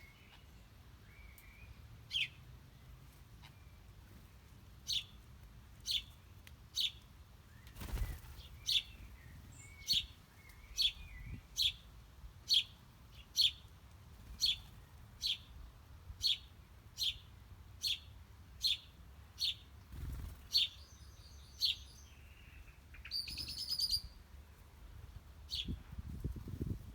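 Small songbirds calling: one bird repeats short, sharp, down-slurred chirps about once or twice a second, and a buzzier call joins in near the end.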